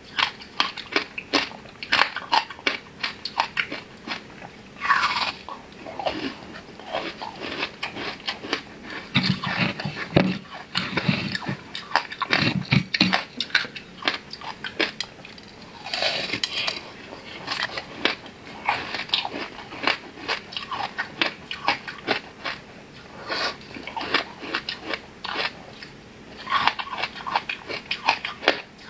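Close-miked eating sounds of a person biting and chewing a soft layered flower-shaped cake: rapid wet smacks and mouth clicks throughout, with a few short sounds that slide down in pitch.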